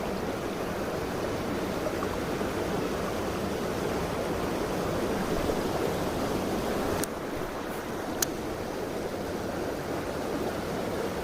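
Mountain stream water rushing steadily over rocks. Two sharp clicks about seven and eight seconds in.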